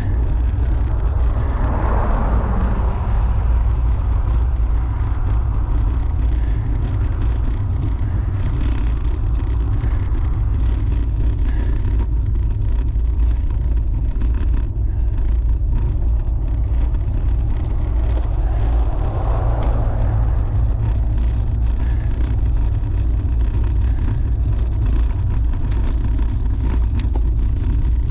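Steady wind rumble on the microphone of a camera riding on a bicycle at speed. Two brief swells of noise rise and fade, about two seconds in and again near twenty seconds.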